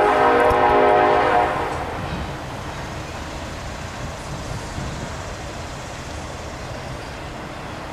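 Locomotive air horn sounding a held chord that cuts off about a second and a half in, followed by the steady rumble of a passing train.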